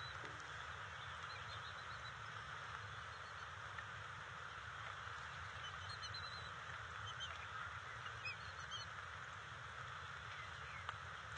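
Steady outdoor background hiss with a low rumble, and a few faint, short, high-pitched bird calls scattered through it, most of them about two-thirds of the way in.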